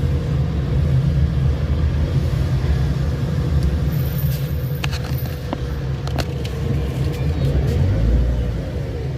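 Steady low rumble of a car driving along a motorway, with a faint steady hum above it and a few light clicks partway through.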